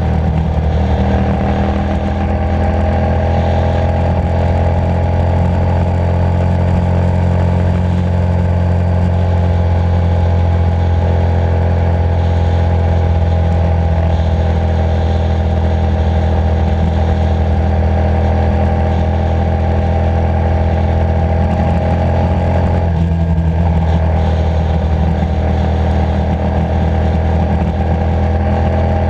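Motorcycle engine running steadily under way, picked up close by a camera mounted on the bike. About three-quarters of the way through, the engine note briefly drops and changes, then settles again.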